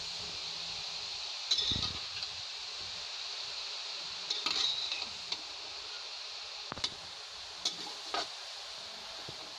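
Grated carrots sizzling with a steady hiss in a kadhai as their own water cooks off, with a metal spatula scraping and clinking against the pan several times as they are stirred.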